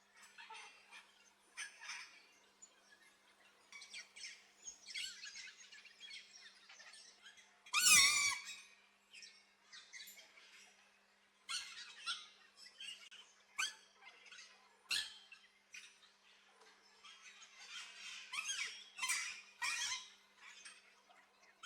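Aviary birds chirping and calling in short bursts throughout, with one loud, harsh squawk about eight seconds in.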